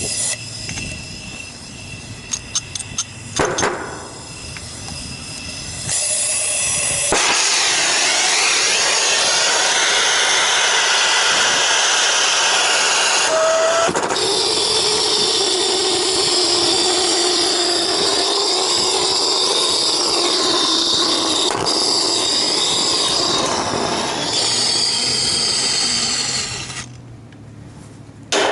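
Hand torch flame hissing steadily for about twenty seconds, thawing ice off a refrigeration compressor's suction side; it starts abruptly about six seconds in and cuts off near the end, with a few sharp clicks about three seconds in before it.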